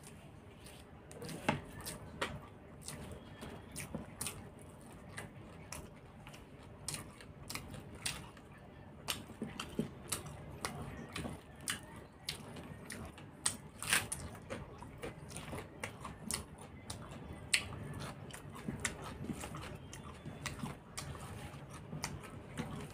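A man chewing and smacking his lips while eating rice and curry by hand, close to the microphone: an irregular string of short clicks and smacks.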